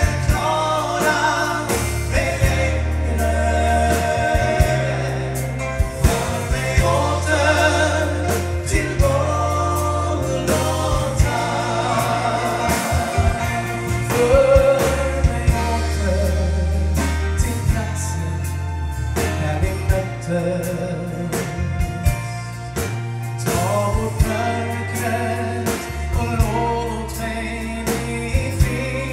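A Swedish gospel song: sung vocals over a steady band with bass and drums.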